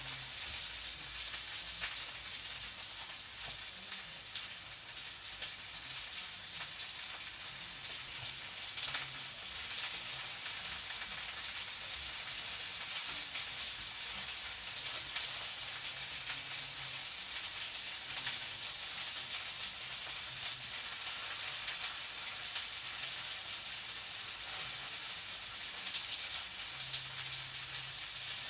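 Food frying in a pan, a steady sizzling hiss with fine crackling.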